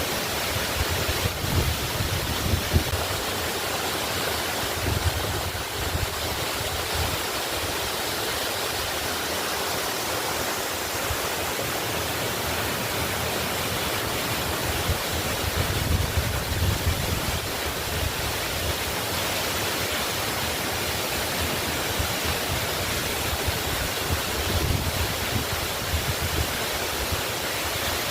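Waterfall rushing steadily, with deep low rumbles that swell and fade a few times.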